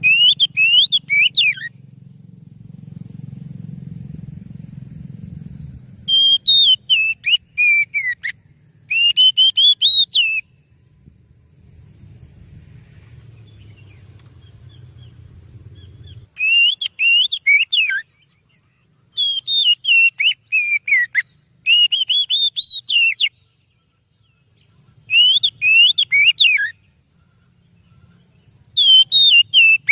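Oriental magpie-robin (kacer) singing: about eight short phrases of loud, clear whistled notes that sweep up and down, each phrase a second or two long, with pauses between them.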